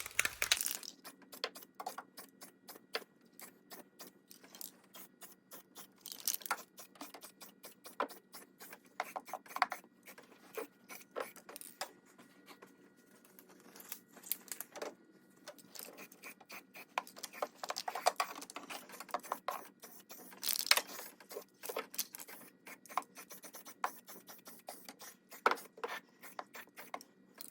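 Aerosol spray paint can applying a coat: short hissing sprays every few seconds among many small clicks and taps, over a faint steady hum.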